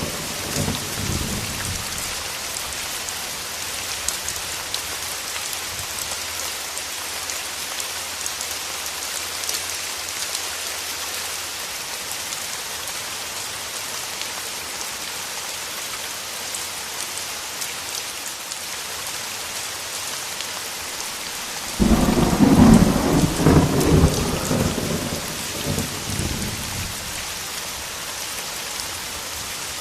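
Steady heavy rain pattering on surfaces, with thunder: a rumble dying away at the start, and a sudden loud clap about 22 seconds in that rolls on for several seconds before fading.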